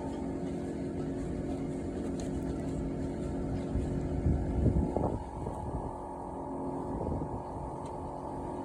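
Steady mechanical hum with a constant drone, swelling into a louder low rumble with a brief rise and fall in pitch about four to five seconds in.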